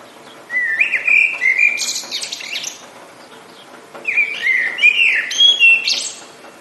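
A songbird singing two phrases of about two seconds each, separated by a short pause. Each phrase starts with warbled whistled notes and ends in a higher, buzzy flourish, over a steady faint background hiss.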